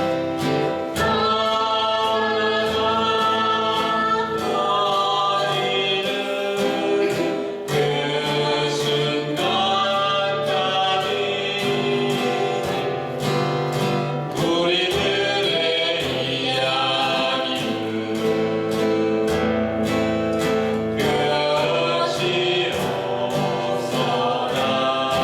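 Voices singing a Korean folk song to a strummed acoustic guitar, the strums keeping an even beat under sung lines.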